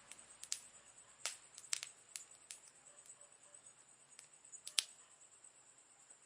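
Wood fire crackling: scattered sharp pops and snaps, the loudest nearly five seconds in, over a steady high-pitched background tone.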